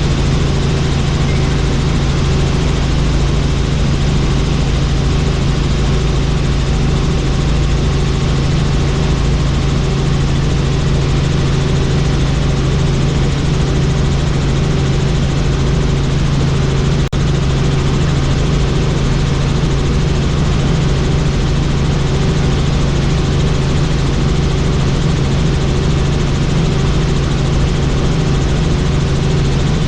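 Helicopter in flight: the rotor and turbine hold a steady, loud, low drone with an even rapid pulsing, unchanging throughout.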